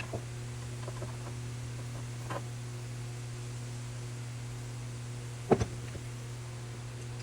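Steady electrical hum with a few light clicks and knocks, the sharpest and loudest a double knock about five and a half seconds in.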